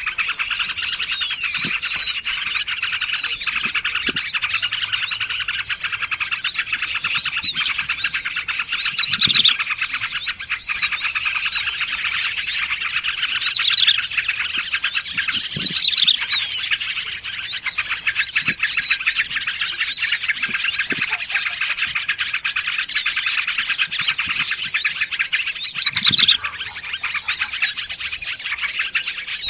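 Dense, continuous chatter of several small songbirds calling over one another, rapid chirps and warbling phrases layered into a busy chorus, with a few short low notes scattered through. This is a bird-lure recording that mixes the calls of several forest species to draw wild birds in.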